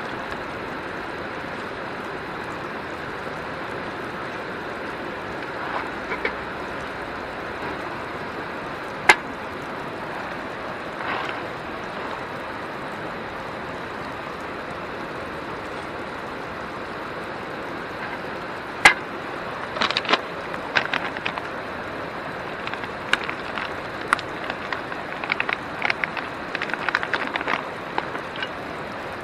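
Steady rushing of river water, with occasional sharp clicks and knocks: one about a third of the way in, another about two-thirds in, then a run of small knocks near the end.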